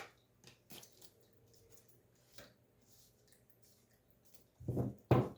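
Tarot cards being handled: a few faint ticks, then two louder short rustling slaps near the end as cards are shuffled and drawn.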